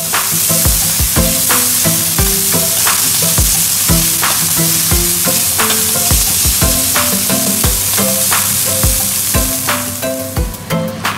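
Ground meat sizzling as it fries in a frying pan while being stirred. The sizzle stops near the end, leaving background music with a steady beat.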